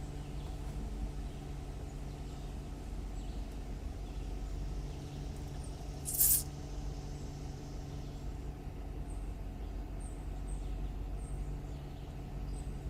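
Car engine running steadily, a low hum heard from inside the cabin. A brief loud hiss comes about six seconds in.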